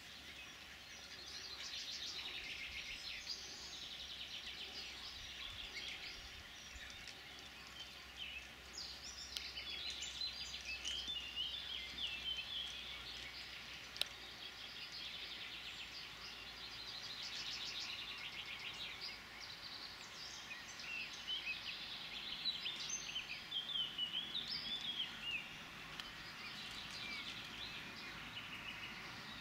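Outdoor ambience of several birds singing and calling, with chirps and quick trills coming and going, over a faint low hum. A single sharp click sounds about halfway through.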